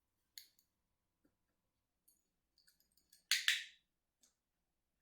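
Handheld dog-training clicker clicked: a faint click just after the start, then a sharp, loud click-clack about three and a half seconds in, with a few small ticks between.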